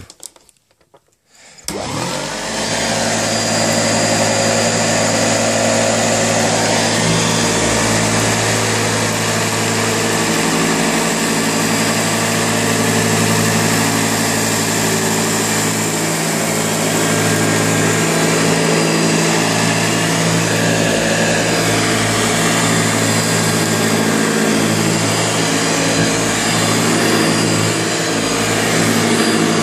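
1981 Hoover Junior upright vacuum cleaner switched on about two seconds in, its motor spinning up and then running steadily with its beater-bar agitator turning on the carpet.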